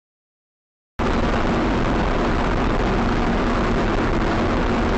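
Silence for about a second, then a sudden cut-in of steady vehicle noise, a constant rush of engine and road sound with a faint steady hum, as picked up by a car's dashcam.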